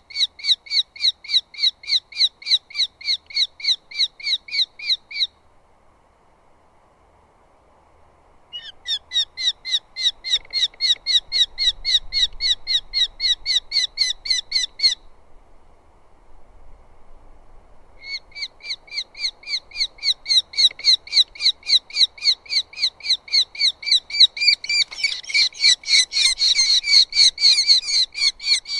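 Eurasian hobby calling a rapid series of sharp repeated notes, about four a second, in three long bouts with pauses of a few seconds between them. Near the end the calls grow louder and rougher.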